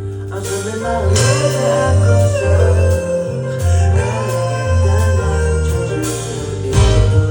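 Live band music with a moving bass line, guitar and singing.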